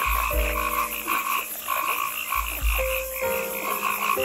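Frog croaking in a steady series of short, rapid calls, about three a second.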